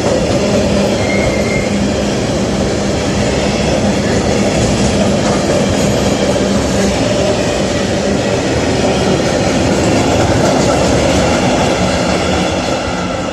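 A train running through the station, loud and steady, with a low hum; it fades near the end.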